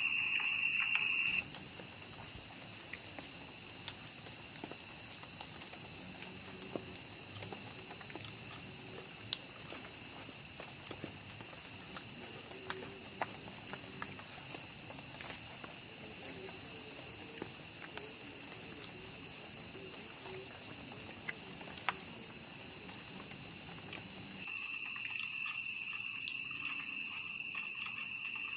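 Steady high-pitched insect chorus droning without a break. Its tone changes abruptly about a second in and again near the end, and a few faint ticks fall through it.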